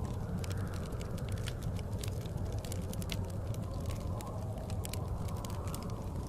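Wood fire crackling in a fireplace, with many sharp pops, over a steady low rumble of blizzard wind that swells softly near the start and again near the end.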